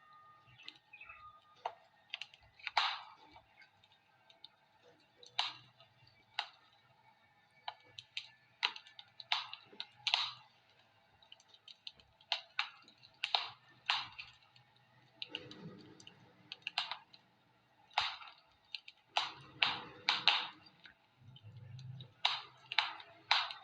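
Wood fire in a fireplace crackling, with irregular sharp snaps and pops a few times a second.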